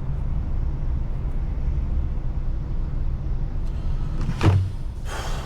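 HGV's diesel engine running steadily, heard from inside the truck cab in slow traffic. About four and a half seconds in comes a sudden knock with a brief low hum, followed by a short hiss.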